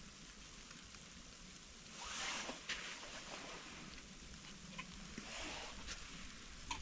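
Food frying in a pan on a camp stove: a soft steady sizzle that swells louder twice, with a few small pops and clicks.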